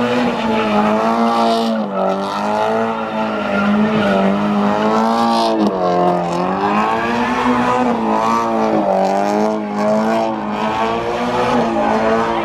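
Car engine held at high revs, its pitch swinging up and down, with tyre squeal: a car spinning its tyres in a burnout.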